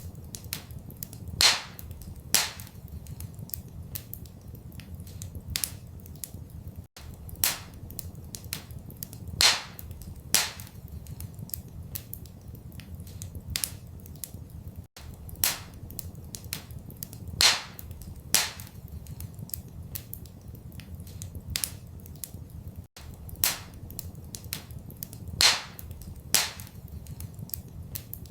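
Wood fire crackling in a fireplace: irregular sharp pops and snaps, a few much louder than the rest, over a low steady rumble. The same short stretch of fire sound repeats about every eight seconds, with a brief dropout where the loop restarts.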